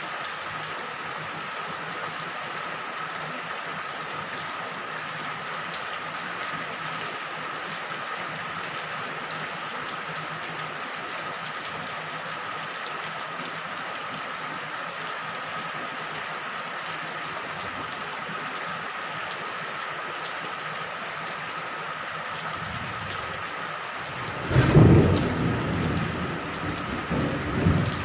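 Steady rain falling with an even hiss; near the end a loud rumble of thunder breaks in and rolls on.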